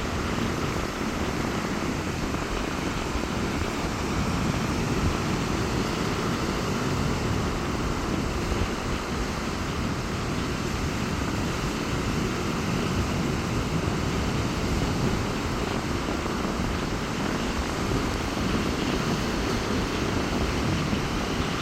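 Steady noise of rough sea waves breaking on a beach in strong wind, with wind rumbling on the microphone.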